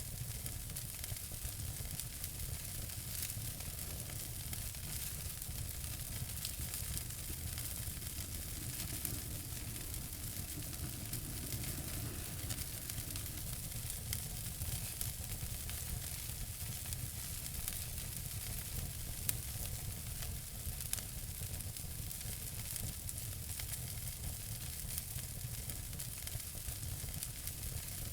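Wood fire crackling in a fireplace: a steady hiss full of small pops and snaps, with a couple of louder pops about two-thirds of the way through.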